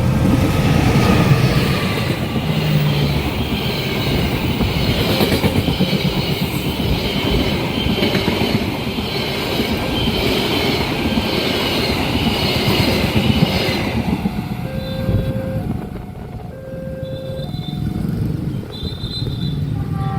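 A long train passing at speed over a curved level crossing, its wheels clattering over the rails with a high screech from the wheels on the curve. About fourteen seconds in the train has gone by, and the crossing's warning signal goes on sounding in short repeated electronic tones.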